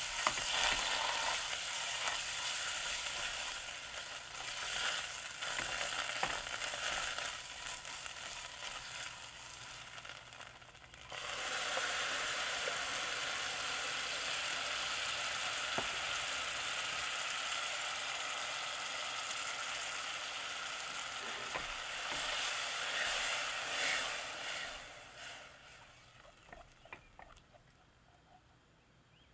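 Grated onion and tomato paste sizzling in oil in a stainless steel pot, with a spatula scraping and stirring. About eleven seconds in, the sizzle jumps back louder with crushed tomatoes in the pot, then dies away near the end.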